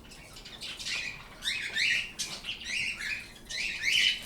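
Pet birds chirping and squawking, a rapid run of short, sharp, high calls several times a second.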